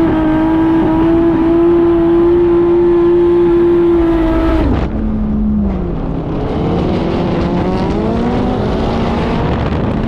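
Turbocharged drift car's engine held at high revs, then the revs fall sharply about halfway through and climb steadily again.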